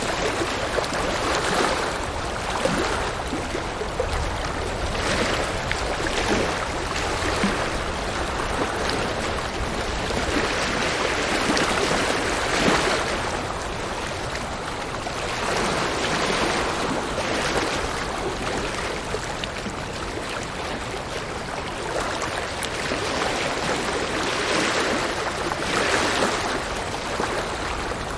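River water flowing and rushing over rocks, a continuous splashing rush that swells and eases every few seconds.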